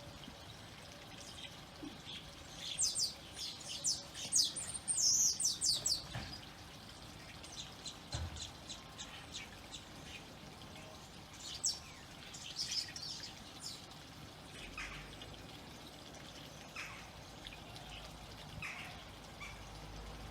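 Garden birds chirping around a feeder, in flurries of quick high chirps, busiest about three to six seconds in and again near twelve seconds.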